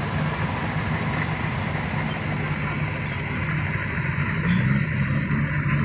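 Diesel dump truck engine idling steadily, with a brief rise about four and a half seconds in.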